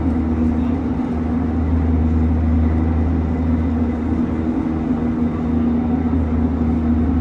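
Cabin noise of a Gyeonggang Line electric commuter train running at speed: a steady low rumble from the wheels and running gear with a constant hum over it.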